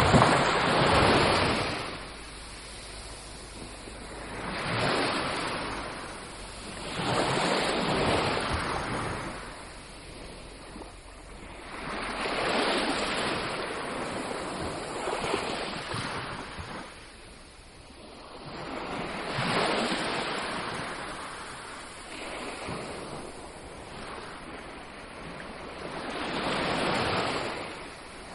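Ocean waves breaking on a beach: the surf swells and fades in a slow, irregular rhythm, a wave every few seconds.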